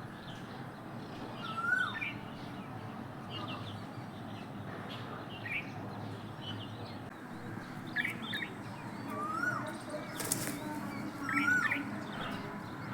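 Peafowl calling: a loud cry that rises and then falls, repeated about three times, with small birds chirping in between over a steady rushing background.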